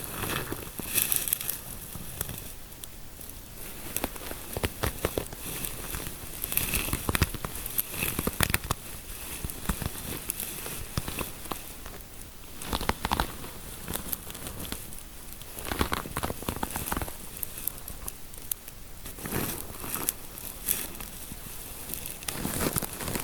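Fingers rubbing and scratching through hair close to the microphone, an irregular crackling and crinkling with sharp clicks and swells every second or two.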